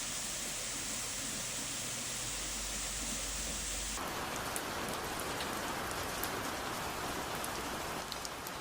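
Steady rain falling, with scattered sharp drop hits in the second half; the character of the noise changes abruptly about four seconds in.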